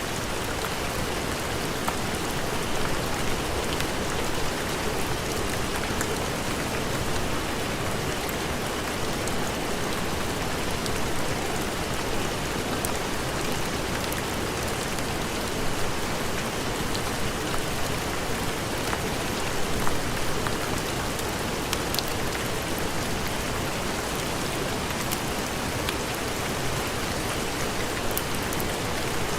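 Steady heavy rain: a dense, even hiss with scattered sharp ticks.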